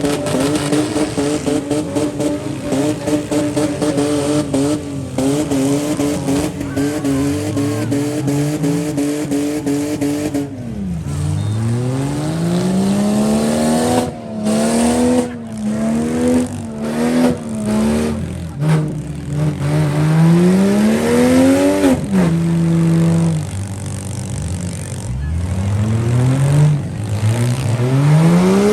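Demolition derby vans, trucks and SUVs with engines running hard: the pitch held high and steady at first, then revving up again and again in rising sweeps from about ten seconds in, with sharp knocks scattered through.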